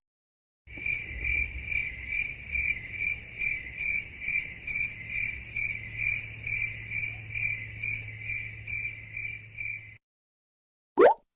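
Cricket chirping sound effect, the meme cue for an awkward silence: an even run of chirps, about two or three a second, over a low steady hum, cutting off abruptly. A short rising swoop follows near the end.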